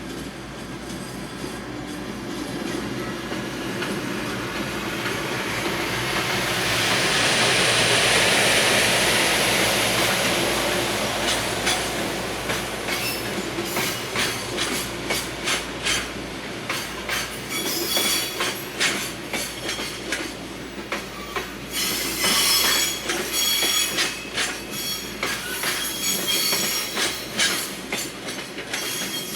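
Freight train led by an EF510 electric locomotive passing: its running noise swells to a peak about eight seconds in, then the container wagons roll by with a clickety-clack of wheels over rail joints. From about two-thirds of the way through, high wheel squeal joins the clicking as the train slows to stop at the station.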